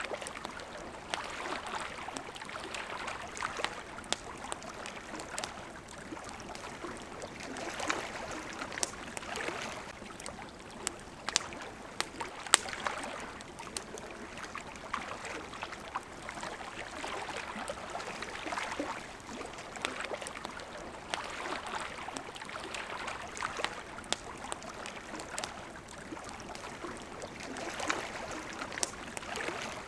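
Small waves lapping at a shore, swelling and fading every few seconds, with a campfire crackling and giving sharp pops throughout. The loudest pop comes about twelve seconds in.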